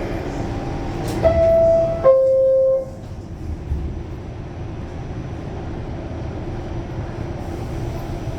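Two-note falling door chime of an R46 subway car, each note lasting under a second, signalling that the doors are about to close. The car's steady low rumble runs under it and carries on afterward.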